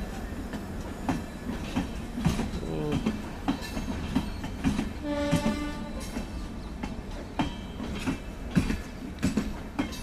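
LHB passenger coaches rolling past, their wheels clacking over rail joints in irregular knocks. A short horn sounds about five seconds in.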